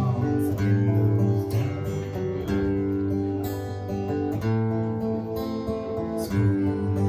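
Live band playing an instrumental passage with strummed acoustic guitar chords, the chords changing about once a second.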